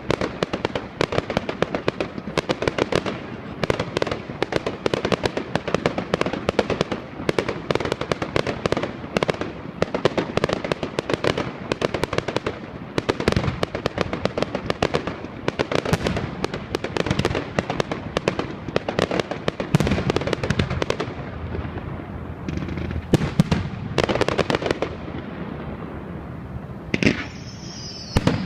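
Fireworks display: a dense, continuous barrage of sharp bangs and crackles, thinning out in the last few seconds, with a rising whistle near the end.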